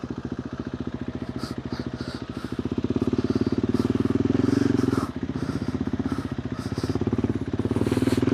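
KTM 390 Adventure R's single-cylinder engine through a Norifumi Whoops slip-on exhaust with its dB killer fitted, pulling at low revs on a trail ride. It opens the throttle about three seconds in, backs off briefly about five seconds in, and builds again near the end.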